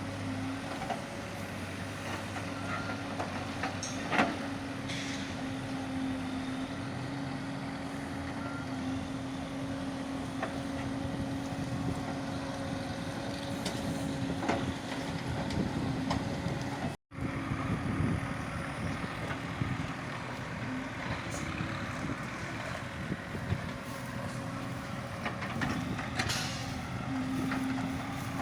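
Diesel engine of a JCB backhoe loader running steadily while it digs. There is a sharp knock about four seconds in, and the sound cuts out for an instant about two-thirds of the way through.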